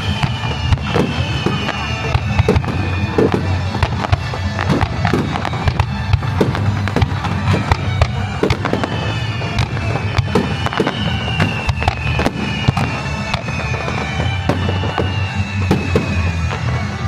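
Aerial fireworks going off in a dense barrage: rapid sharp bangs and crackling over a steady low rumble, with two long, falling whistle tones.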